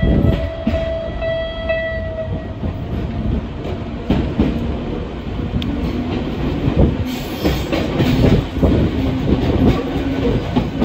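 Electric train running and picking up speed, heard from the rear cab through an open window: wheels clacking over rail joints and points, with wind noise and a low motor hum. A steady tone fades out about two seconds in.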